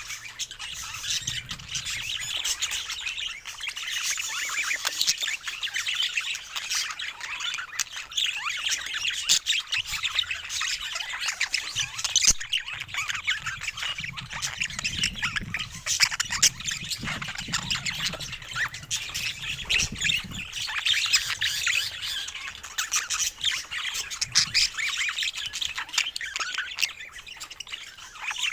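Budgerigars chattering: a dense, unbroken stream of quick high chirps and calls.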